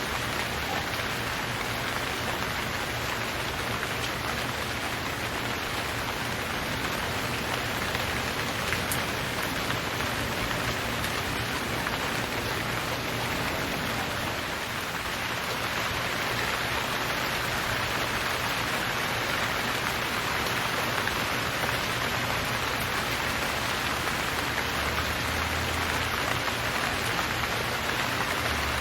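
Steady rain falling and pattering on surfaces, an even continuous hiss.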